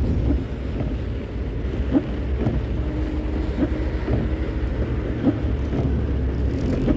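Vehicle driving: a steady low rumble of engine and road noise with scattered light knocks and clicks.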